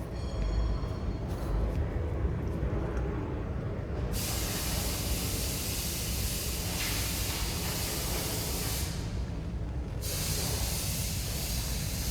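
A steady hiss starts about four seconds in and stops near nine seconds, then runs again for about two seconds near the end, over a low rumble throughout.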